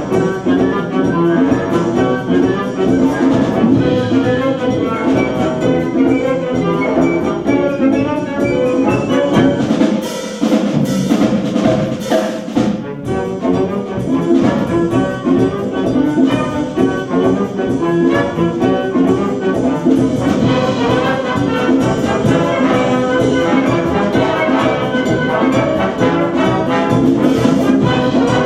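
Military brass band playing, with trumpets and trombones carrying the music over percussion. The bass drops away for a few seconds about ten seconds in, then the full band comes back.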